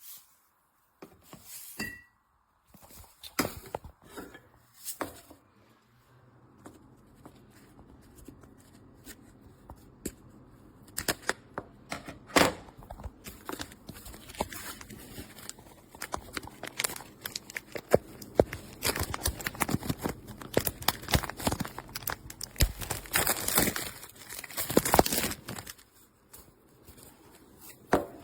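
Packaging being torn open and handled: tearing and crinkling, with many small knocks and rustles that come thickest in the second half.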